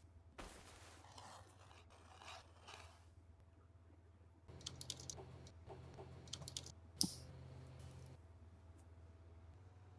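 Faint handling sounds: soft rustling, then a run of small clicks with one sharper click about seven seconds in, over a steady low hum.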